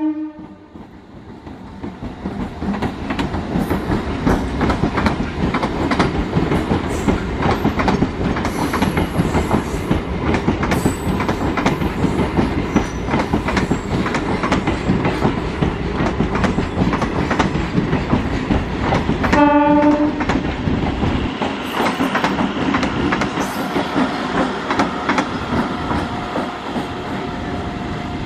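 MEMU electric multiple-unit train running past, with a steady rumble and wheels clicking over rail joints. A short horn blast sounds about two-thirds of the way through, and the rumble eases off over the last few seconds.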